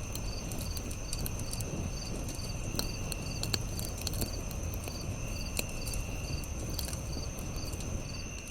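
Campfire crackling with scattered sharp pops over a low rumble of the flames, while crickets chirp in a regular rhythm and insects keep up a steady high trill.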